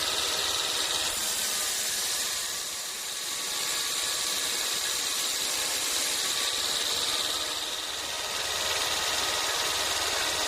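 Sawmill saw machinery running steadily: a dense mechanical noise with a high steady whine, easing slightly twice.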